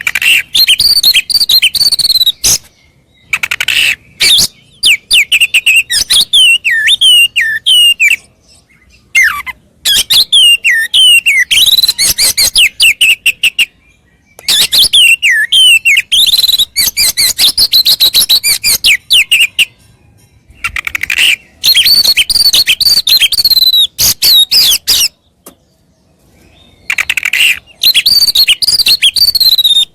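Oriental magpie-robin (kacer) singing loudly in its fighting mood, pouring out its repertoire of mimicked fill-in phrases. Fast runs of rising and falling whistles and chattering trills come in bursts of a few seconds, with short pauses between them.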